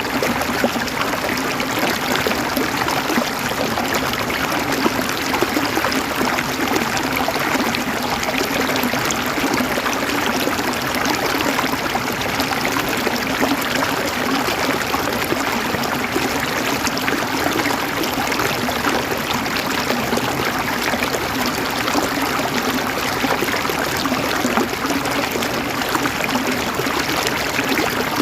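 River water flowing and gurgling over rocks, a steady rush with many small splashes and no change throughout.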